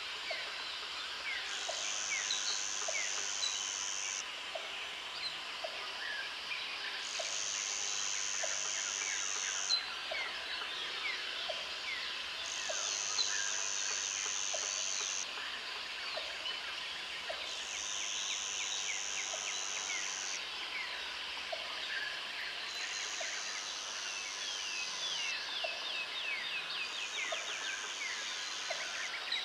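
Jungle ambience: a high insect buzz that comes in bouts of about three seconds with short gaps between, over many birds chirping and calling, and a short low note repeating about once a second.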